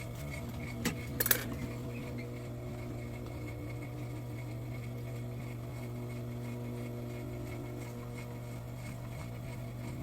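A few sharp metallic clinks, like small metal objects being set down, about a second in, over a steady electrical hum.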